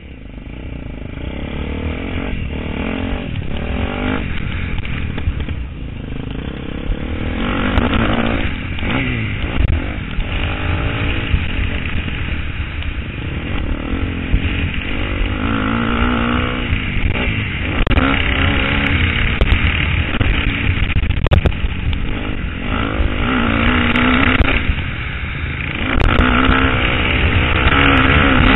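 KTM 250 SXF single-cylinder four-stroke motocross engine being ridden, its revs rising and falling repeatedly as the rider opens and closes the throttle. It is somewhat quieter for the first seven seconds or so, then louder.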